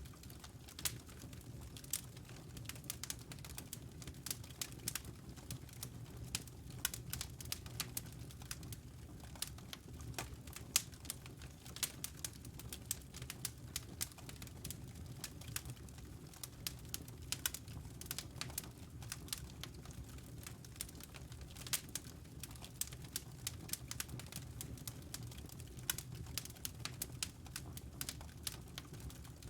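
Wood fire crackling in a fireplace: irregular sharp snaps and pops over a low steady rumble of the flames.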